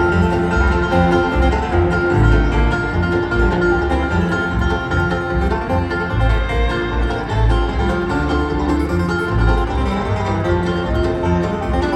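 Live bluegrass band playing an instrumental intro: picked strings over a steady bass pulse.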